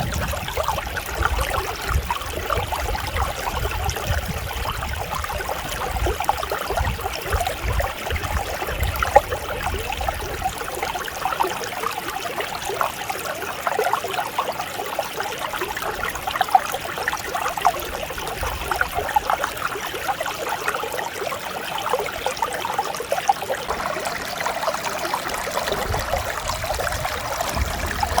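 Mountain stream running steadily with a continuous babbling, trickling rush of water. A deep low rumble underneath comes and goes.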